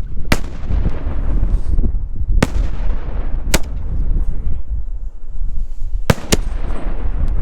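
Aerial firework shells going off: five sharp bangs, the last two close together about six seconds in, over a steady low rumble.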